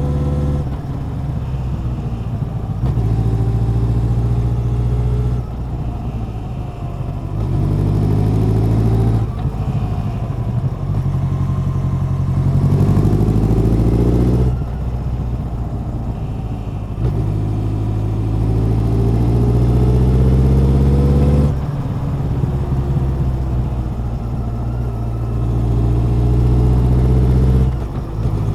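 Honda CB1100's air-cooled inline-four exhaust under way, climbing in pitch through about five throttle pulls, each dropping back sharply as the throttle closes or a gear is changed before pulling again.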